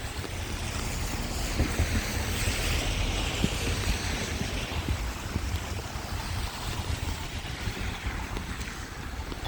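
Storm wind buffeting the microphone, a steady rushing noise with a low rumble.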